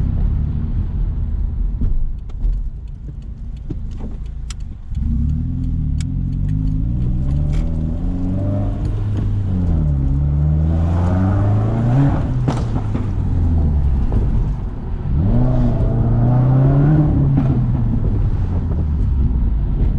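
Subaru WRX flat-four engine with muffler and resonator deleted, driving and revving, its exhaust note climbing and falling as it accelerates and lets off, with a few sharp pops from the open exhaust.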